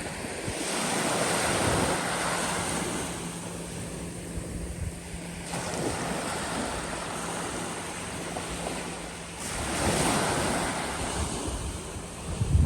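Small bay waves washing onto the beach, swelling and falling back about every four seconds, with wind buffeting the microphone.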